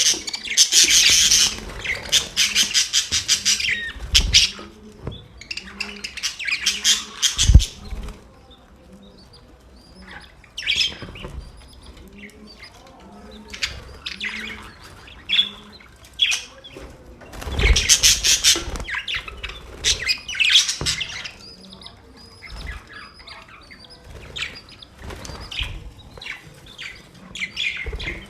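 Budgerigars chirping and chattering: many short, sharp chirps, with several loud bursts of fast warbling chatter. A low thump about seven seconds in.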